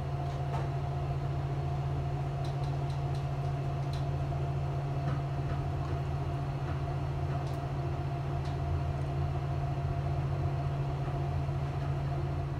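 Steady low hum of an ÖBB Nightjet sleeper train at a station platform, heard inside the carriage, with a fainter steady higher whine over it and a few faint clicks.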